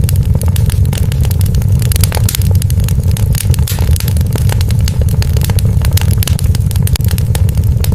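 Wood fire burning, with a steady low roar under dense, irregular crackling and popping.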